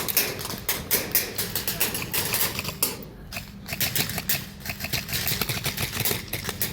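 Airsoft guns firing in rapid clicking bursts, with BBs striking hard surfaces, during a close-quarters push.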